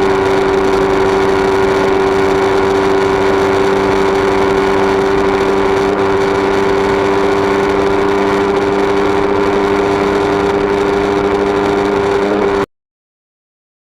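Yamaha MT-03's 321 cc parallel-twin engine running at a steady speed, a constant drone with no change in pitch, cutting off abruptly about a second before the end.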